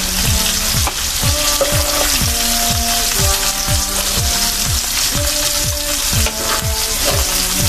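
Beef liver slices sizzling steadily as they fry in bacon fat and butter, with tongs lifting them from the pan. A low beat, about two to three strokes a second, runs underneath.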